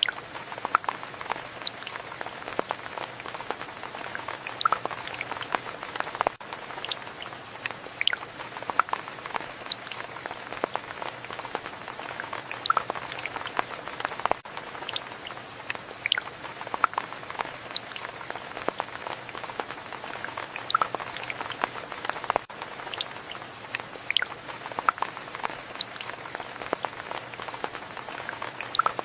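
Rain falling steadily, with many separate drops plinking and dripping onto surfaces; the pattern repeats about every eight seconds.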